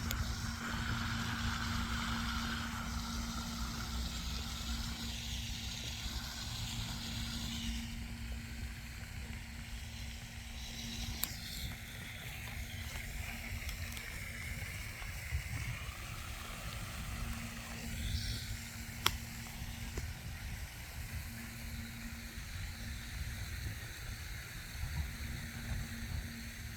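Outdoor ambience: a low, uneven rumble of wind on the microphone over a steady hum, with two sharp clicks well apart.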